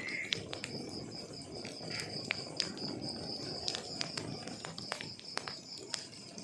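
Wood fire burning in a fireplace: many sharp irregular crackles and pops over a low steady rumble of the flames. A steady, high-pitched pulsing trill runs underneath.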